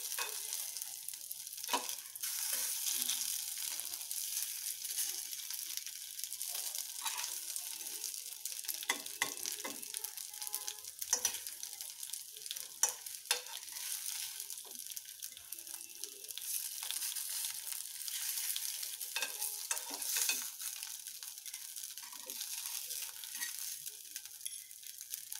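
Idlis sizzling in a hot mustard-seed and curry-leaf tempering in an aluminium pressure cooker pan, a steady high hiss. Scattered clicks and scrapes of a fork against the metal pan as the idlis are lifted out.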